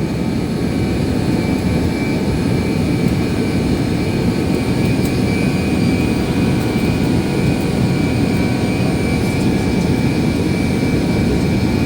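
Jet airliner cabin noise during the approach to landing: a steady, loud rumble of engines and airflow heard from inside the cabin, with a faint steady high whine above it.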